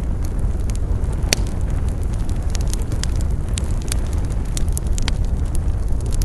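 Wood campfire crackling, with irregular sharp pops and snaps over a steady low rumble; one pop about a second in stands out as the loudest.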